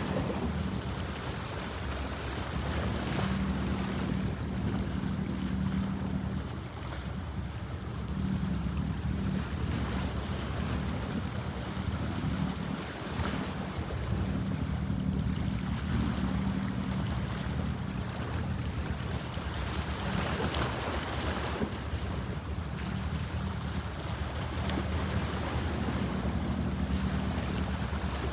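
Bosphorus sea waves washing and splashing in a steady noisy swell, over a steady low hum, with wind on the microphone.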